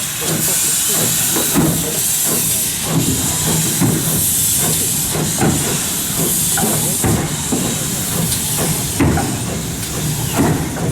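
Steam locomotive letting off a steady hiss of steam, with a stream of short, irregular pulses beneath it.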